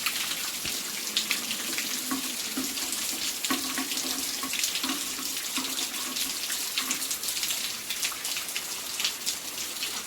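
Steady rain, with rainwater running and dripping off an edge in a continuous hissing splash full of small drip ticks. A faint low hum comes and goes underneath.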